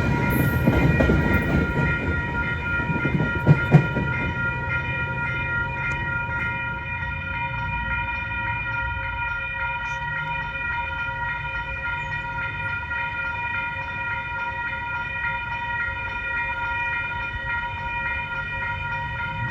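Train sound with a steady, unchanging whine made of several high tones over a low rumble that eases off after the first few seconds. Two sharp knocks come about three and a half seconds in.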